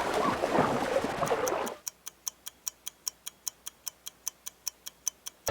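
Swimming sounds, water splashing with voices, cut off suddenly a little under two seconds in. A clock then ticks steadily, about four or five ticks a second, counting down the time to guess.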